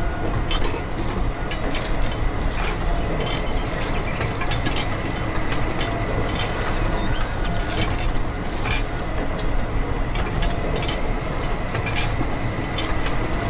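Steady mechanical running noise with a low rumble, a thin steady whine, and irregular clicks and rattles throughout.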